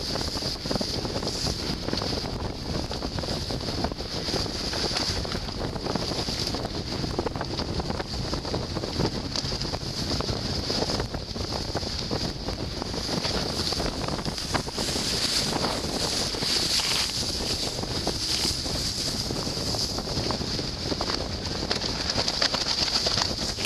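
Strong wind buffeting the microphone on a small sailing boat, with water rushing and splashing along the hull in a wind of around 30 knots. It is a steady, loud hiss that swells and eases with the gusts.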